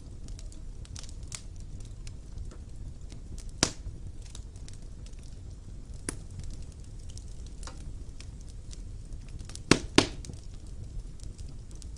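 Wood fire burning in a fireplace: a steady low rumble of flames with scattered sharp crackles and pops, the loudest a quick pair of pops near the end.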